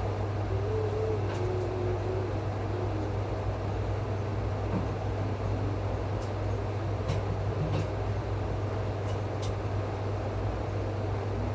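Steady low mechanical hum, with a few sharp faint clicks in the second half.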